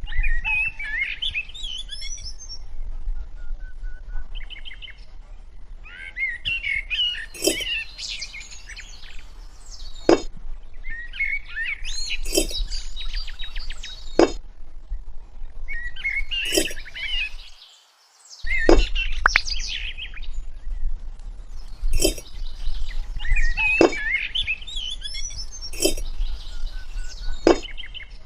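Small birds chirping and twittering, with sharp knocks every two to three seconds.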